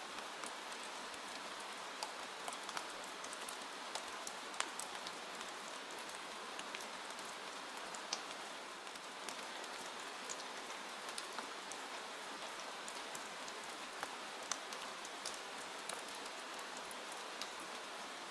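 Steady rain falling, with individual drops ticking sharply against the window glass over a constant hiss.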